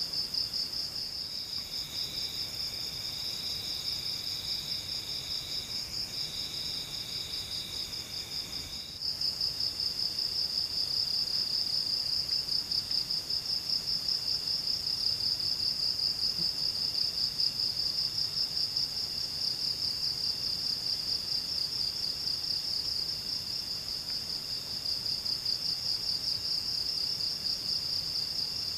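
A forest insect chorus: a steady, fast-pulsing high trill with a second, lower insect song coming and going over it. The chorus breaks off for a moment about nine seconds in and comes back louder.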